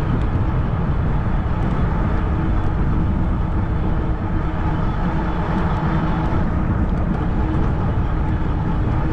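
Steady rushing wind noise and fat-tire rolling noise from a 20-inch fat tire e-bike cruising at about 20 mph in pedal assist, with a faint steady hum in the second half.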